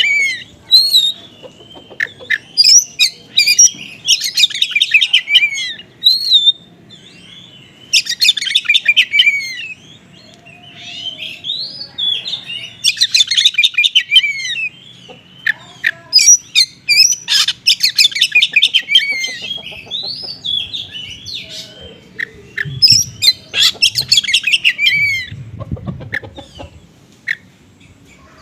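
Oriental magpie-robin (kacer) singing a varied song full of small-bird mimicry. Phrases of a second or two of rapid trills alternate with short whistled notes that slide up and down. This is the kind of song played as a lure to provoke a caged kacer into singing.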